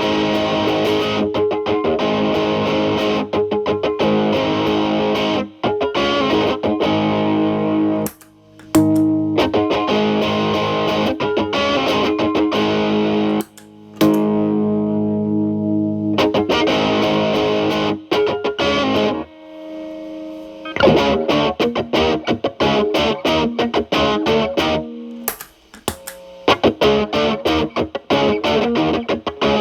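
Electric guitar (Telecaster) played through an MI Audio Crunch Box distortion pedal into a Marshall Valvestate clean channel, in a cleaned-up setting with the pedal's gain at maximum. It plays picked lines and chords, with a chord held for several seconds about a third of the way in and short pauses between phrases.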